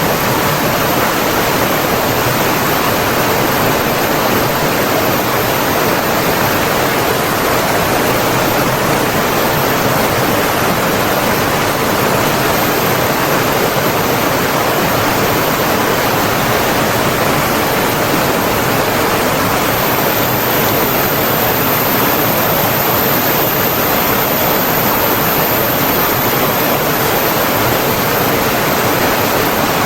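Rushing water of a stream or waterfall, a steady, even roar.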